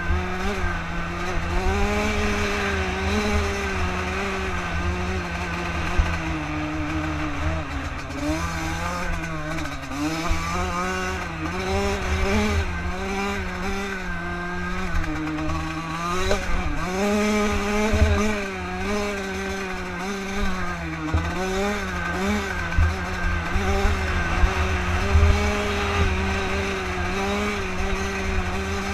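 Bored-out Yamaha YZ Supermini two-stroke dirt bike engine being ridden on a motocross track, its pitch rising and falling every second or two as the throttle is opened and closed through the turns and jumps.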